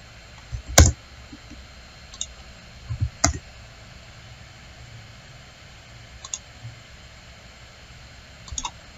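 Scattered computer mouse clicks, a sharp loud one about a second in and another about three seconds in, then a few fainter ones, over a faint steady background hum.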